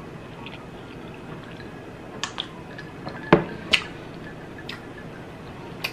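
Mukbang eating sounds: a few short, wet mouth smacks and clicks while chewing, spaced irregularly, the loudest a little past halfway.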